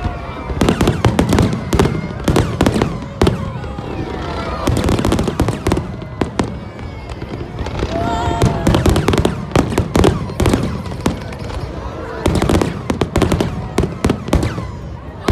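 Fireworks bursting in rapid, crackling volleys of sharp bangs that come in waves with short lulls between them.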